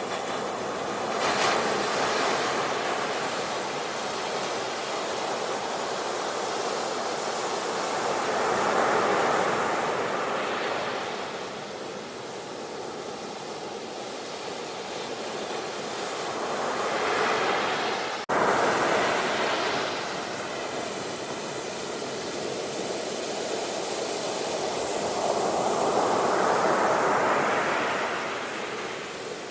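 Sea waves washing onto the shore, the surf swelling and falling back about every eight seconds. Roughly two-thirds of the way through there is a momentary gap in the sound.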